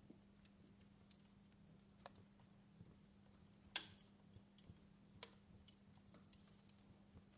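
Faint crackling of a wood fire in a fireplace: sparse, irregular pops and clicks, with one louder pop about four seconds in.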